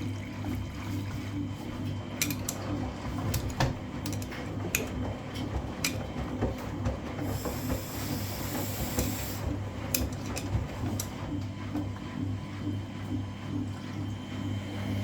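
Washing machines running mid-wash: a steady motor hum with a pulsing drum rhythm and scattered clicks and knocks. A hiss rises for about two seconds near the middle, then stops.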